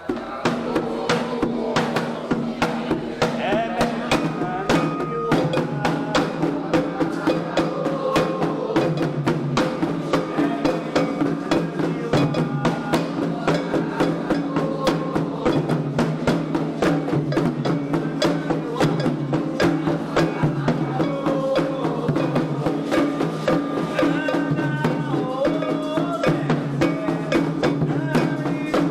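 Candomblé xirê music: atabaque hand drums and a bell beating a steady, driving rhythm under voices singing a chant. It starts suddenly at full level.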